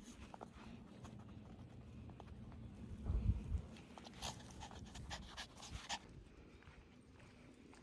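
A puppy panting, with a soft low bump about three seconds in and a run of light clicks after it.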